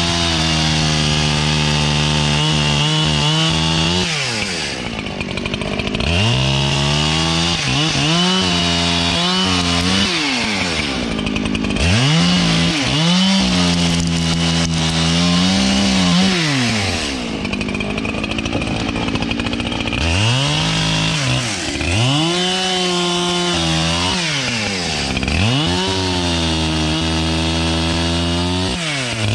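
Gas chainsaw run repeatedly at full throttle: its engine pitch rises, holds steady, then drops back toward idle, over and over, typical of bucking wood with the throttle let off between cuts.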